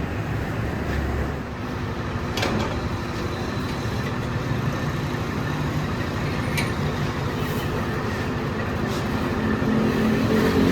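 Steady low mechanical rumble with a few sharp clicks, growing louder near the end.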